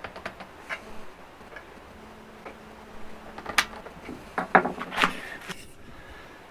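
Irregular clicks and knocks of metal kalimba tines being pushed and tapped into place over their bamboo bridge as the instrument is adjusted, with a faint low tine tone ringing briefly in the middle. The instrument is still untuned.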